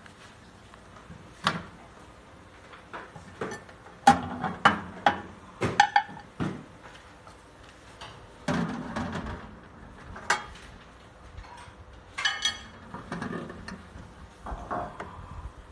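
Handling noises: a string of sharp knocks and clicks, some with a brief ring, broken by a few short scraping or rustling stretches, with the loudest knocks between about four and seven seconds in.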